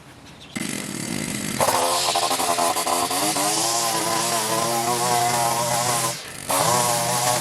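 A garden power tool's motor starts up and runs at high speed, its pitch wavering. About six seconds in it drops off briefly, then runs up again.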